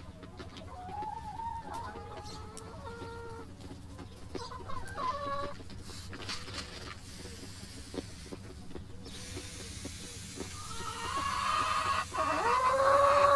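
Backyard chickens clucking and calling: a few short calls, then a longer, louder call near the end.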